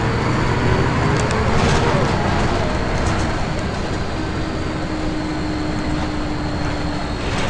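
Volvo B10BLE single-deck bus running, with a steady high-pitched whine over the engine and road noise; the whine is an unexplained fault noise.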